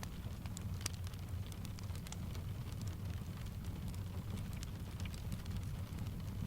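Steady rain mixed with a crackling wood fire: many small sharp crackles and drip ticks scattered over an even hiss and a low steady rumble.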